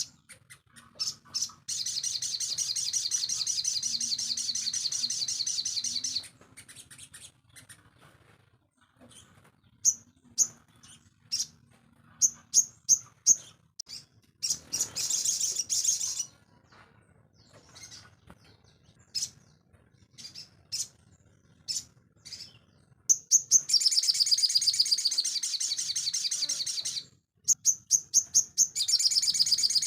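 Sogon songbird singing: long, fast, high-pitched trilling phrases, broken in the middle by scattered short, sharp chips, then the trill picks up again near the end.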